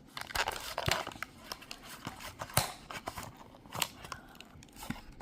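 A box of washing machine cleaner tablets being opened by hand: irregular crinkling and tearing of the packaging, with sharp snaps about a second, two and a half seconds and nearly four seconds in.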